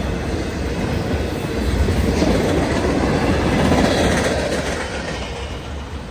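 Union Pacific manifest freight train's cars rolling past, steel wheels clacking over the rail joints. It swells louder in the middle, then eases off near the end.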